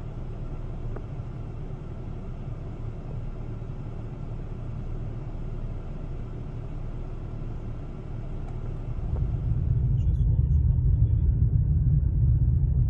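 Steady low rumble of a car driving, as picked up by a dashcam; it grows louder about nine seconds in.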